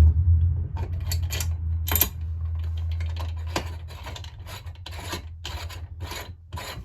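Repeated short metal-on-metal rasping strokes, about two a second, as hand tools work on a chainsaw crankcase, over a low hum that fades during the first few seconds.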